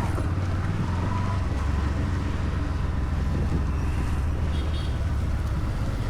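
Vehicle engine running steadily while on the move, a continuous low drone with wind noise on the microphone.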